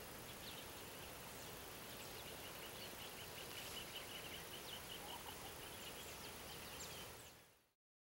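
Faint bird calls: a quick run of short high notes, several a second, mixed with a few brief falling whistles over outdoor background hiss. The sound fades out near the end.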